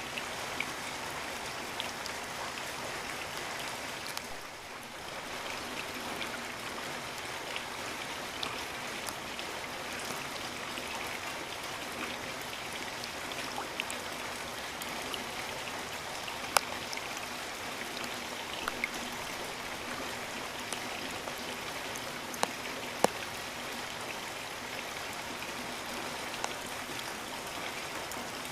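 Steady rain hiss, with scattered single drops striking close by as sharp ticks. The level dips briefly about four seconds in.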